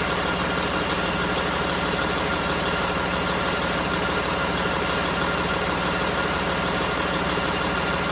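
Detroit DD15 inline-six diesel engine idling steadily, an even run of firing pulses.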